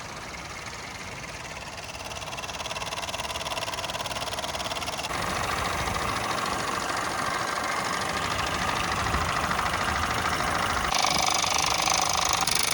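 Several small Mamod live-steam model engines running together: a steady hiss of steam with fast, even exhaust chuffing. It grows louder as it goes, stepping up about five seconds in and again near the end.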